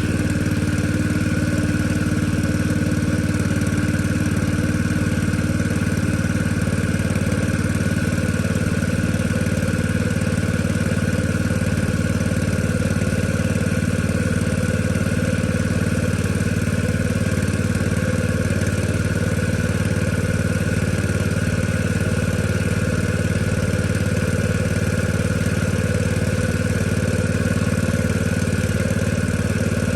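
Small petrol engine running at a steady idle, just after being started.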